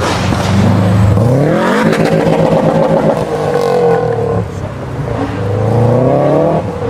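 High-performance sports car engine accelerating hard, its pitch climbing as it revs up, easing, then rising again before dropping sharply near the end.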